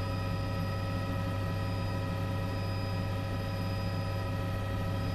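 Steady helicopter cabin hum on the crew's intercom audio: a constant low drone with several fixed whining tones above it, unchanging throughout.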